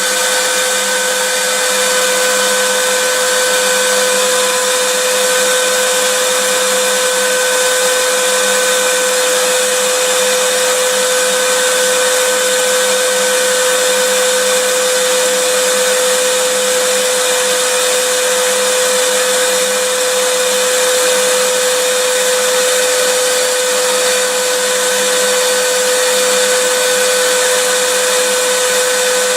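Vacuum cleaner running steadily: a continuous hiss of rushing air over a steady motor whine, unchanging throughout.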